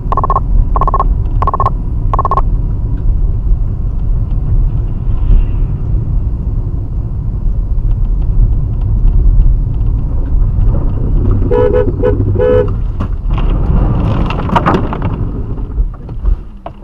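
Vehicle horn sounding in four short blasts at the start, over the steady low rumble of a vehicle on the road. About twelve seconds in, three more short horn blasts at a lower pitch, followed by a louder, noisier stretch.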